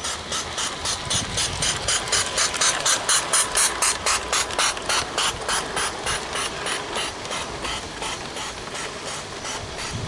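Live steam model garden railway locomotive chuffing past, its exhaust beats coming about four to five a second. The beats grow louder to a peak about three to four seconds in, then fade as it runs away.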